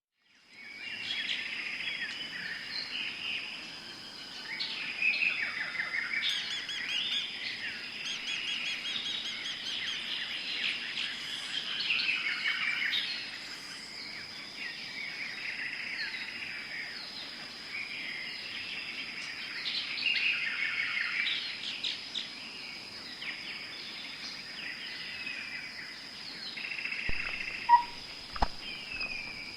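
Tropical forest bird chorus: many birds singing and calling at once, dense overlapping chirps and trills, over a steady thin high-pitched tone. It fades in at the start, and there are a few sharp clicks near the end.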